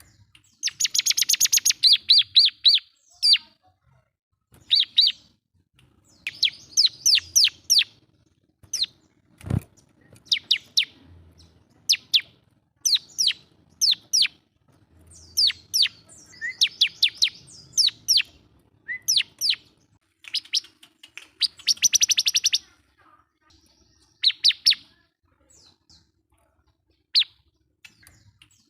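Bar-winged prinia (ciblek) singing vigorously: repeated phrases of rapid, sharp, high chirps separated by short pauses. A single sharp click sounds about a third of the way in.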